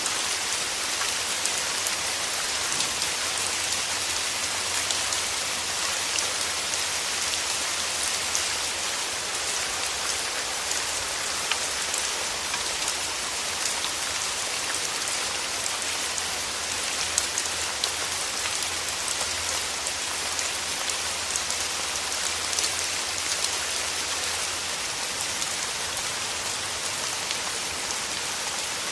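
Steady rain falling, a dense even hiss with many small drops ticking close by.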